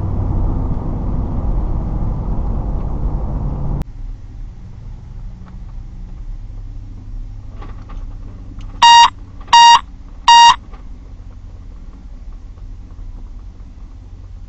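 Steady low rumble of a vehicle driving, which cuts off abruptly about four seconds in, leaving a quieter low hum. A few seconds later come three loud electronic beeps, a steady tone each, about three quarters of a second apart.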